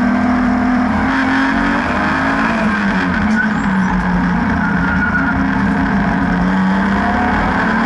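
BMW N52B30 3.0 litre straight-six engine of an E36 track car running hard, its pitch falling and rising again several times as the driver lifts and gets back on the throttle.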